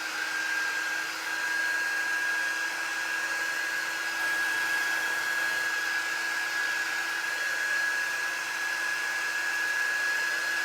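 Handheld electric hot-air blower running steadily, a constant whine over rushing air, used to dry freshly stenciled chalk paste.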